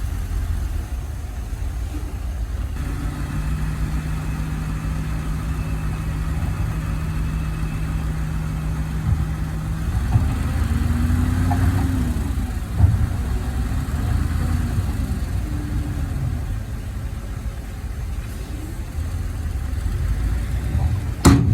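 Engine of heavy earthmoving machinery running with a constant low rumble. Its pitch holds steady for several seconds, then rises and falls around the middle. A single sharp knock sounds near the end.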